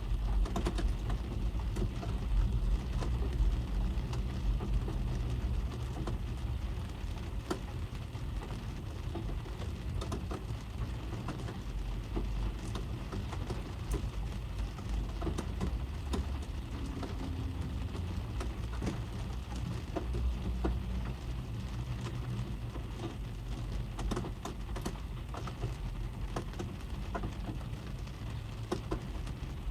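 Rain falling on a car, heard from inside the cabin: a dense patter of separate drop hits over a low rumble.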